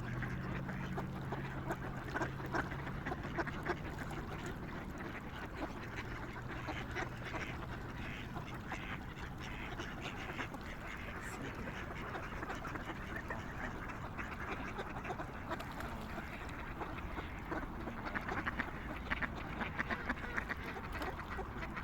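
A flock of waterfowl, ducks and swans, calling continuously in a dense chatter of overlapping quacks and honks.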